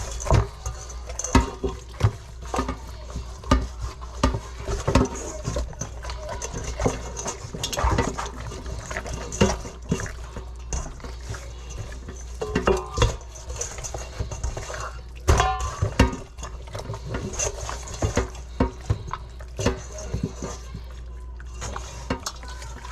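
Dishes, pots and utensils being handled, with irregular clinks and knocks and some sloshing of liquid.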